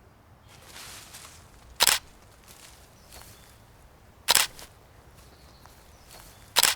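Camera shutter firing three times, about two seconds apart, each a sharp short click against faint outdoor background.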